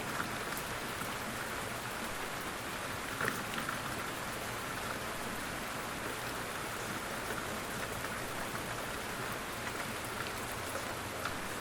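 Steady rain falling on a surface: an even patter with individual drops ticking now and then, a slightly louder drip about three seconds in.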